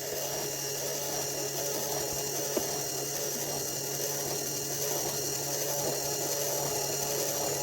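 A small electric motor running steadily with a constant whine, with one short click about two and a half seconds in.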